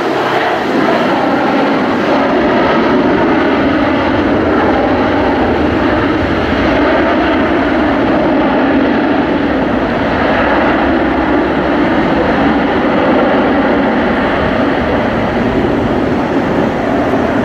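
Boeing 767-300 jet airliner's engines running with a loud, steady roar.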